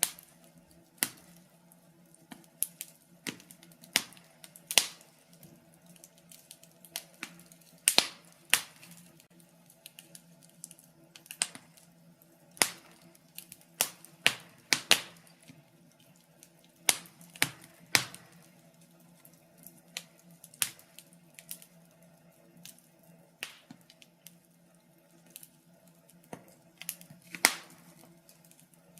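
Wood fire crackling in a fireplace: irregular sharp pops and snaps, one to three a second with some much louder than others, over a faint steady hum.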